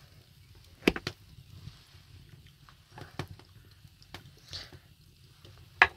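Scattered faint clicks and knocks, a second or so apart, with one sharper knock near the end, over a quiet room background.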